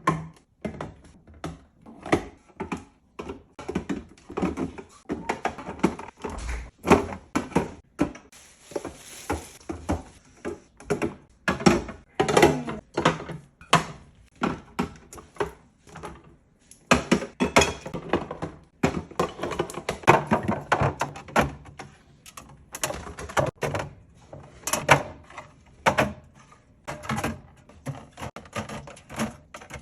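Groceries being put into a refrigerator: a steady, irregular run of knocks and clunks as containers and jars are set down and shoved around on the shelves.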